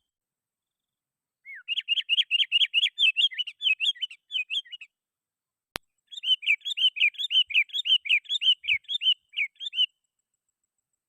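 Sooty-headed bulbul (kutilang) singing vigorously: two rapid runs of short chirps, about five a second, each lasting three to four seconds. A single sharp click falls between them.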